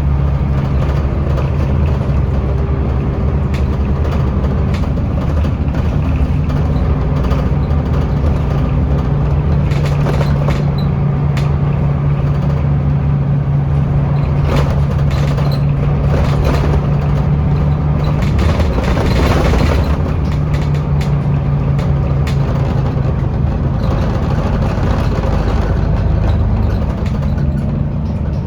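Scania L94UB bus running under way, its engine giving a steady low drone. About two-thirds through, the drone breaks up and a brief rushing noise swells before the engine settles again. Scattered clicks and rattles sound throughout.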